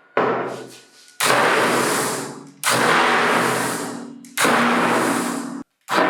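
Restored handheld external concrete vibrator tested in a series of short runs, each starting abruptly and fading over about a second, with a hard, thudding mechanical character.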